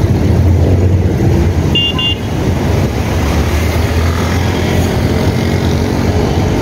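Steady low rumble of heavy city traffic, with a box truck and a bus passing close by. About two seconds in comes a short, high double beep of a horn.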